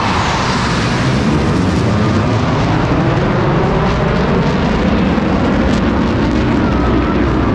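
US Air Force Thunderbirds F-16 fighter jets flying past, a loud jet roar that swells in at the start and then holds steady.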